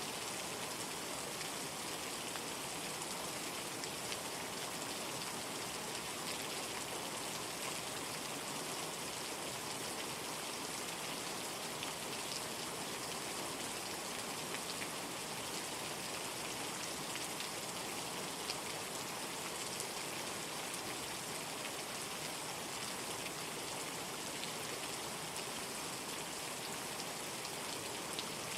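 Steady rain falling, an even hiss with the fine patter of individual drops on a surface.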